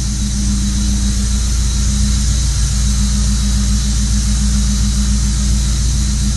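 Mazda 323 SP20's engine running steadily, a low hum with a thin, steady high-pitched whine over it: the annoying noise the owner is showing.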